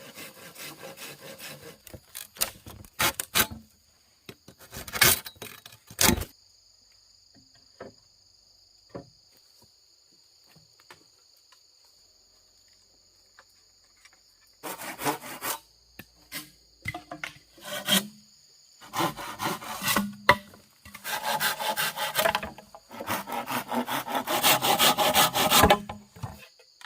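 Wood being hand-sawn in runs of rasping strokes, with a few sharp knocks in between and a long quiet pause in the middle. A steady high insect drone runs underneath.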